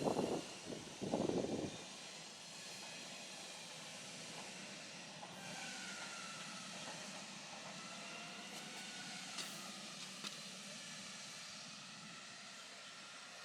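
Steady outdoor background hiss, like distant traffic, with a few short, louder scuffing noises in the first two seconds.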